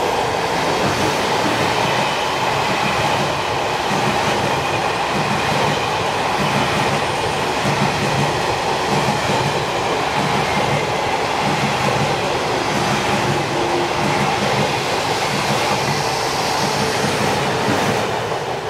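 Taiwan Railway push-pull Tze-Chiang express train passing close by at speed, a steady loud rush of wheels on rail with a rhythmic clickety-clack from the wheels over the track.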